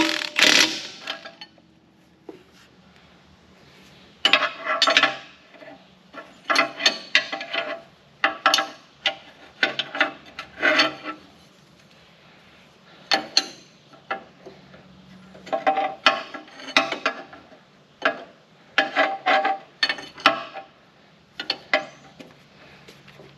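Hand tools working on metal: irregular bursts of clanking and scraping, a few short strikes at a time, separated by short pauses.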